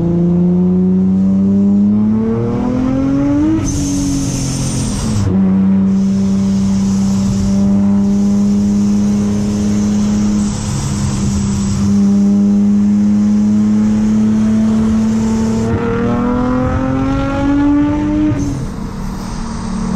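Supercharged Infiniti G35's 3.5-litre V6 (Vortech V3 supercharger, six-speed manual) heard from inside the cabin, accelerating with a rising pitch. The pitch drops at an upshift about four seconds in, then holds a steady drone at cruising speed before climbing again near the end and dropping at a second shift.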